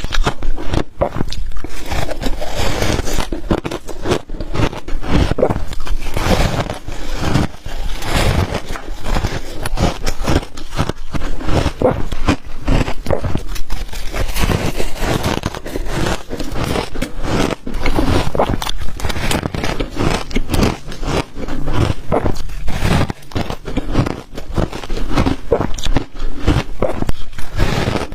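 Close-miked biting and crunching of ice dusted with matcha and milk powder: a dense, continuous run of sharp cracks with no real pauses.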